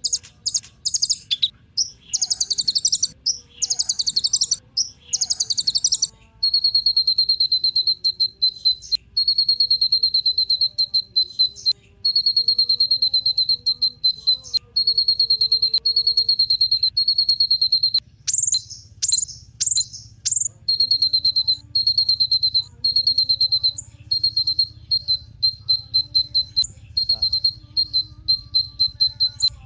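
Kolibri ninja, a small sunbird, singing. It opens with fast high chattering phrases, then settles into a long, very rapid trill of high notes on one pitch, broken by short pauses. A few sharper, higher notes come about two-thirds of the way in.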